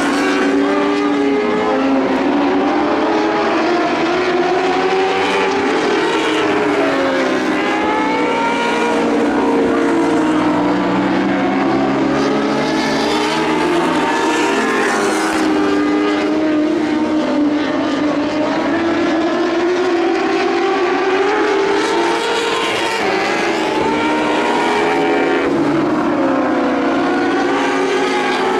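Several lightning sprint car engines racing together on a dirt oval. Their overlapping notes keep rising and falling as the cars accelerate and lift around the track.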